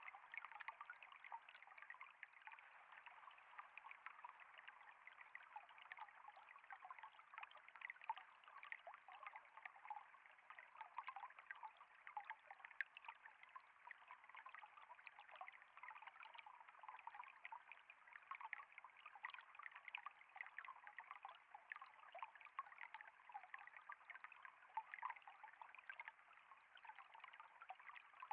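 Quiet, steady trickle of flowing water, with a constant patter of small splashes.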